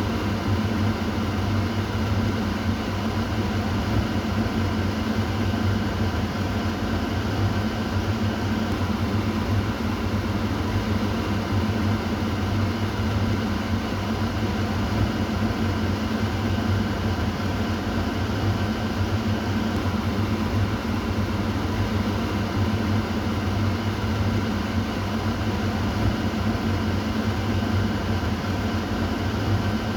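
Kitchen exhaust fan running steadily: a continuous whoosh of moving air over a low motor hum.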